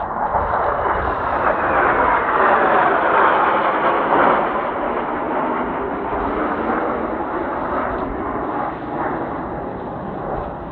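Kawasaki T-4 jet trainers passing overhead: engine noise that swells, peaks about four seconds in with a falling whine, then slowly fades. Low wind buffeting on the microphone underneath.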